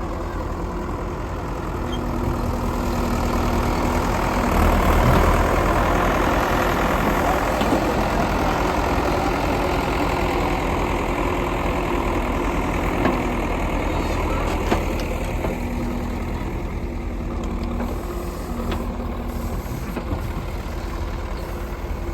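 Diesel engine of heavy machinery running steadily, growing louder for a few seconds about four seconds in.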